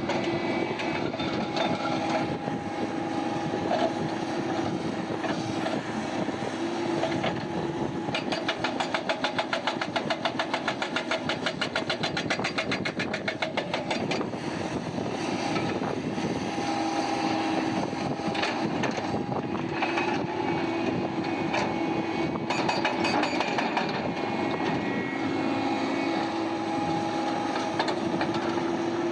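Heavy diesel mining machinery running steadily, with a fast, even rattle for several seconds about a third of the way in.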